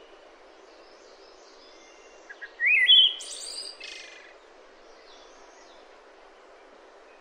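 Bird calls: a short rising whistle and a brief run of chirps about three seconds in, over a faint steady hiss.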